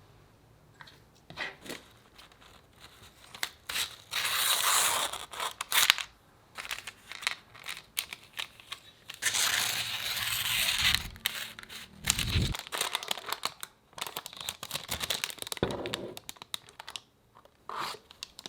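Handling noises: two longer bursts of crinkling, tearing noise, with scattered clicks and taps between them.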